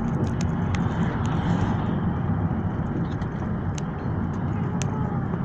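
Steady low rumble of road and engine noise inside a moving car's cabin, with a few faint scattered clicks.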